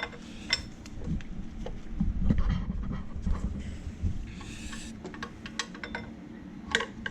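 Metal hand tools clicking and knocking as a 10 mm hex tool is fitted to the accessory-belt tensioner, with a steady low hum underneath.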